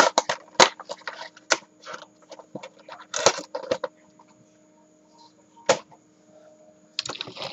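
Irregular clicks and knocks of a plastic Trackmaster toy train and its cars being handled, over a faint steady hum from the battery-powered engine's motor.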